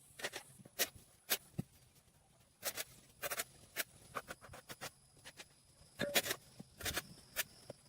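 Irregular sharp clicks, snaps and short scrapes, coming in loose clusters of several a second, with gaps of a second or so between them.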